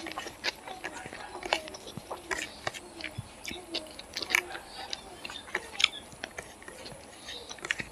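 A person chewing a mouthful of rice and chicken close to the microphone, with irregular wet smacks and clicks several times a second.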